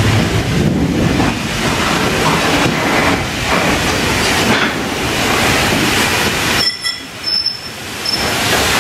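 A train running past on the rails: a loud, steady rush of wheel and rail noise. About seven seconds in, it drops away briefly and a thin, high squeal from the wheels comes through before the noise builds again.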